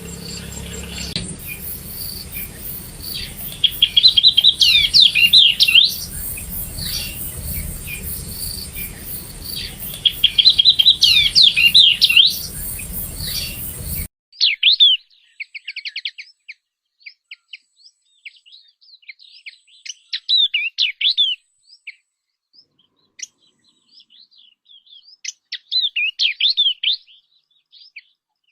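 Yellow-eyed babbler singing: short, loud phrases of rapid rising and falling whistled notes, repeated every few seconds. A steady hiss lies under the first half and drops out about halfway through.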